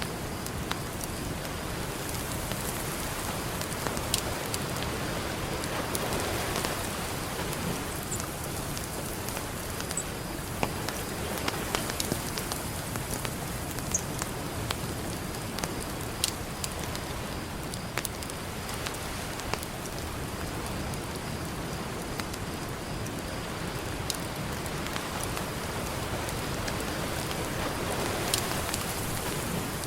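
Campfire crackling with frequent sharp, irregular pops over a steady wash of ocean surf that swells up twice.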